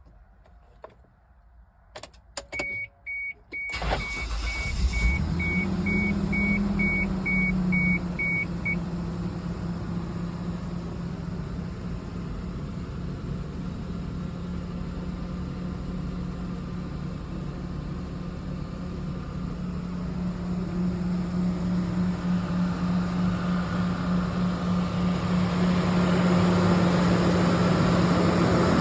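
Cold start of a 1998 Mitsubishi Montero: a few clicks, then a steady in-cab warning chime. The engine cranks briefly about four seconds in and catches, speeds up for a moment, then settles into a steady cold idle that grows louder over the last several seconds.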